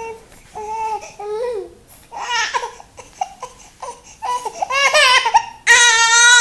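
Baby babbling and fussing in short high-pitched calls, then breaking into a long, loud cry near the end.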